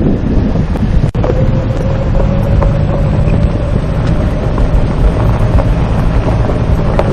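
Heavy wind buffeting the microphone over an off-road vehicle running, with a steady whine and a short break about a second in.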